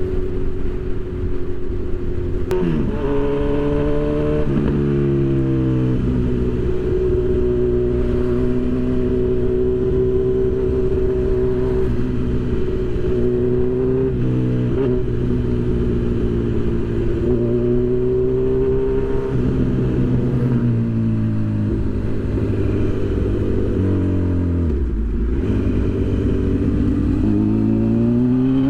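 Honda CB1000 inline-four motorcycle engine running under way and pulling through the gears. Its pitch drops sharply at shifts a few seconds in and again about halfway, sinks as the bike slows from about 20 to 25 seconds, then rises as it accelerates near the end.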